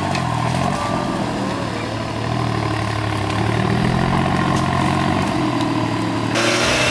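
Off-road 4x4 engine running under load as the vehicle crawls through brush, its pitch rising slowly as it builds revs. A louder hiss cuts in suddenly near the end.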